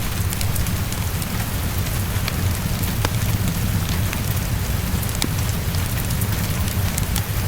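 Steady heavy rain, with a deep low rumble under it and sharp ticks and pops scattered throughout, blended with a crackling fireplace.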